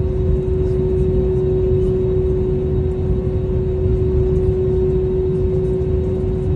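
Steady airliner cabin noise inside an Airbus A320-271N: a low rumble with a constant hum held at one pitch.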